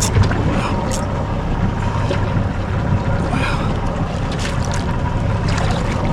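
Yamaha 350 HP outboard idling while the boat holds a slow drift, a steady low hum, with wind on the microphone and a few light ticks.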